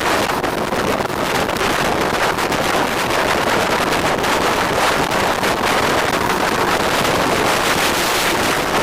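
Steady rush of wind over the microphone on a moving motorcycle, mixed with the noise of the ride.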